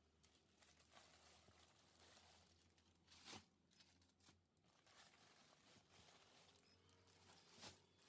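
Near silence: faint room tone with a low hum and two soft clicks, one near the middle and one near the end.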